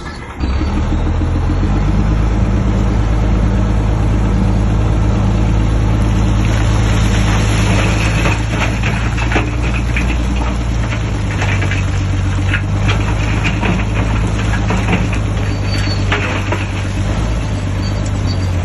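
A bulldozer's diesel engine running steadily under work, coming in suddenly about half a second in. Short metallic clanks and rattles come through over the engine from about seven seconds in until near the end.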